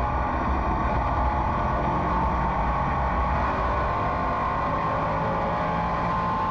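A field of race cars running at speed around an oval after a green-flag restart, many engines blending into one steady drone with pitches that drift slowly up and down as the cars go around.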